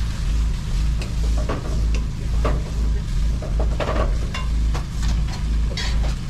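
Food sizzling in a food-truck kitchen, with utensils scraping and clattering now and then, over a steady low hum from the truck's kitchen machinery.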